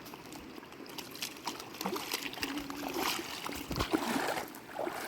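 Water trickling and splashing, with many small, irregular splashes.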